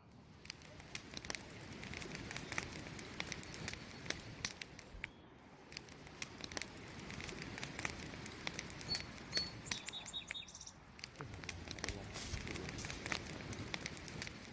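Campfire wood fire crackling and popping with dense, irregular snaps over a steady hiss of burning. A few short, high bird chirps come in about nine to ten seconds in.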